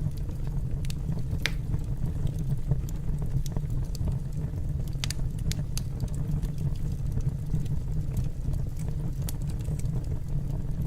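Wood fire burning in a fireplace: a steady low rumble of flame with scattered sharp crackles and pops.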